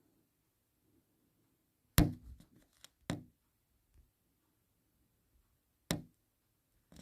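Four sharp knocks spread through a near-silent stretch. The first, about two seconds in, is followed by a brief rattle, and the others come about a second later, near the six-second mark and right at the end.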